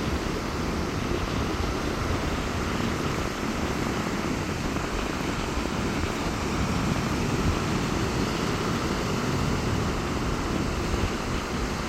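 Sea surf breaking on a beach in strong wind: a steady, low-heavy rushing noise with no distinct events.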